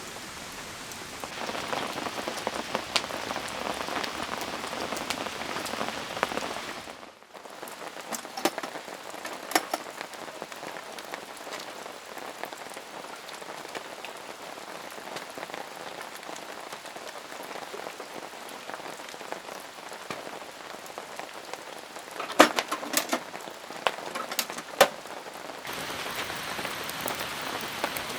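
Steady rain falling, with single heavier drops landing now and then. The character of the rain noise changes abruptly about seven seconds in and again near the end.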